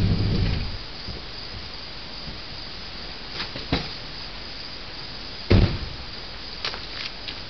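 Engine exhaust running through true dual Thrush mufflers, cutting off under a second in, leaving a steady faint hiss. A few light clicks and one louder thump follow near the middle.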